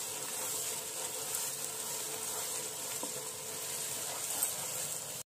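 Tomato-onion masala with turmeric and chili powder sizzling steadily in oil in a non-stick pan while a wooden spatula stirs it, with a few light taps of the spatula. The masala is at the bhuna stage, fried until the oil has separated to the surface.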